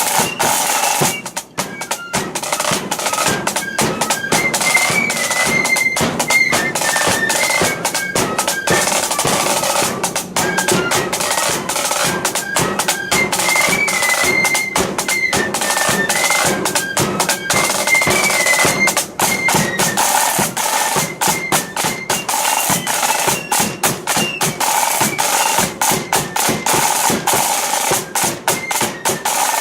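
A blood-and-thunder marching flute band playing a tune: massed flutes carry a high melody over rapid, rattling snare drums and heavy drum beats.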